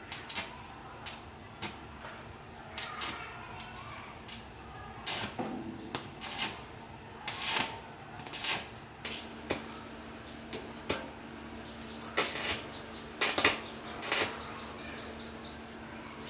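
Metal parts and hand tools clinking and knocking at an irregular pace while a machine is being worked on, with a quick run of about six ticks near the end. A faint steady hum comes in about halfway through.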